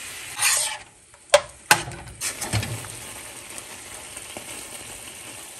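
Chicken teriyaki sizzling in a frying pan, with a brief louder burst of sizzle about half a second in. About a second and a half in come two sharp knocks close together, then steady sizzling again.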